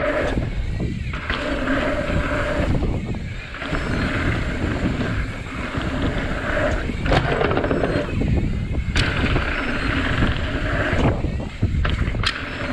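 Santa Cruz Tallboy mountain bike riding down a trail: heavy wind rumble on the microphone, tyre noise, and scattered knocks and rattles from the bike over rough ground, with a buzzing hum that comes and goes.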